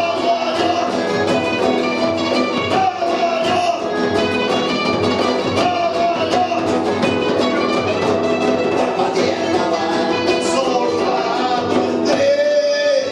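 Punk band playing a song live, with guitar prominent; a note is held near the end.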